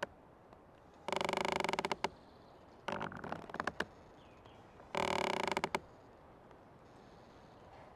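Old tree creaking in the forest: two drawn-out creaks about a second long, near the start and just past the middle, with a shorter, more broken creak between them.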